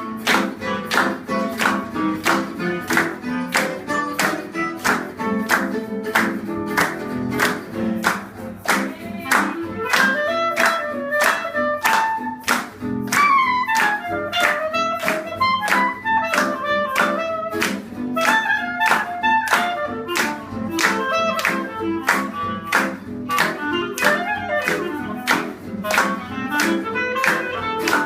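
Small acoustic gypsy-jazz group playing a minor-key swing tune. A strummed rhythm beats steadily about twice a second under a melody line with sliding notes that is busiest in the middle stretch.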